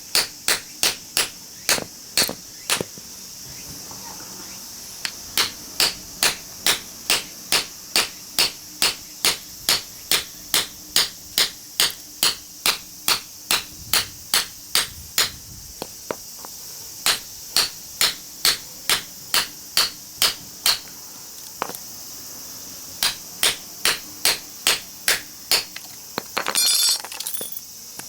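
Hammer beating steadily on a cold chisel driven into a small transformer's laminated steel core, sharp metallic blows about two and a half a second in runs with short pauses, as the core is split to get at the copper winding. A short rattling clatter near the end.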